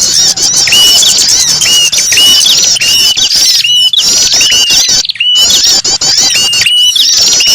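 Bird-lure recording of many small birds calling at once: a dense, loud, high twittering chatter over a short hooked call repeated about once a second, with a couple of abrupt brief gaps where the track is cut.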